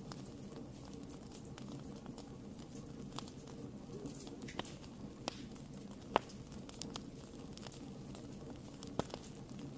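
Wood fire burning in a fireplace, crackling with many small scattered clicks over a steady low rush of the flames. A few sharper pops stand out, the loudest about six seconds in and another near nine seconds.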